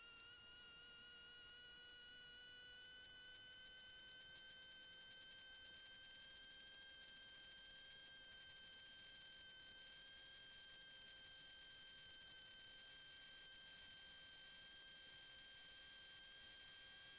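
Electrical whine in a light aircraft's intercom audio just after engine start: steady tones creeping slowly higher in pitch as the engine settles toward 1,000 RPM, with a sharp high chirp that dips and climbs back, repeating about every one and a quarter seconds. The engine itself is barely heard.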